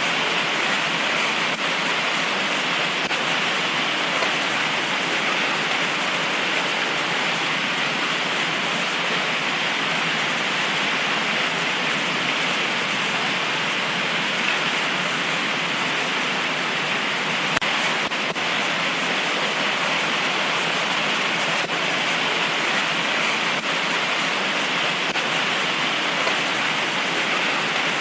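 Heavy tropical rain falling steadily, an even dense hiss with no thunder.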